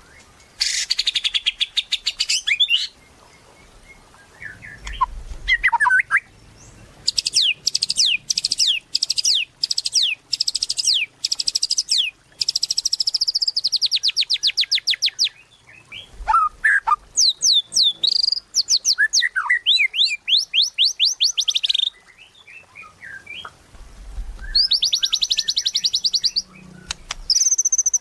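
White-rumped shama (murai batu) singing in loud phrases of rapid repeated high notes and trills, with short pauses and a few softer, lower chirps between phrases.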